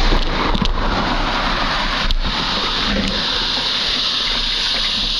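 Trek 820 mountain bike tyres swishing and splashing steadily through two to three inches of standing water on soggy ground, with a few sharp clicks from the bike.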